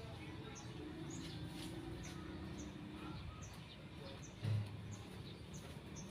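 Birds chirping, short high chirps about twice a second, over steady outdoor background noise, with a brief low thump about four and a half seconds in.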